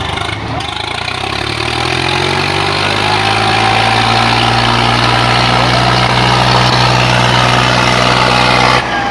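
Tractor diesel engine revving up over a second or so and then held steady at high revs.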